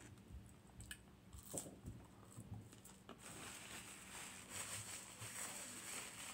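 Quiet mouth sounds of chewing with a few sharp clicks in the first seconds, then from about three seconds in the crinkly rustle of a paper napkin being handled and crumpled.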